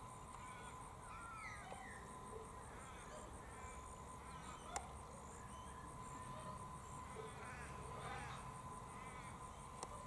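Outdoor ambience: a steady, high insect trill pulsing a few times a second, with scattered short chirps from small birds and a faint steady tone. A single sharp click comes about five seconds in.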